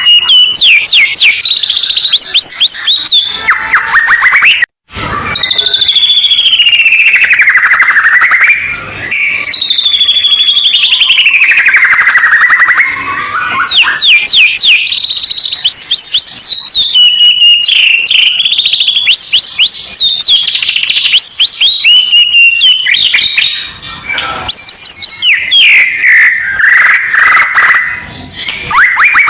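Loud, continuous songbird song from a masteran recording for training white-rumped shamas (murai batu): fast rattling trills and phrases that slide up and down in pitch, with a brief cut-out about five seconds in.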